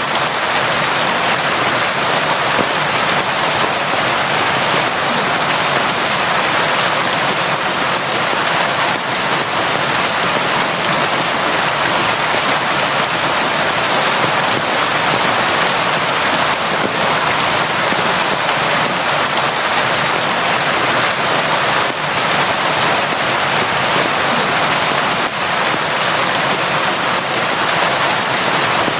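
Steady, constant rain falling, an even hiss with scattered drop ticks.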